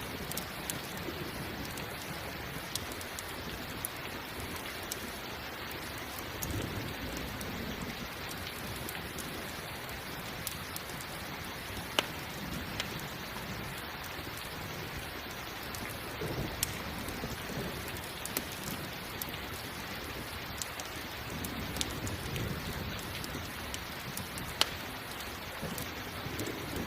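Steady rain mixed with a crackling campfire: an even hiss of rain, with sharp pops now and then and soft low rumbles every few seconds.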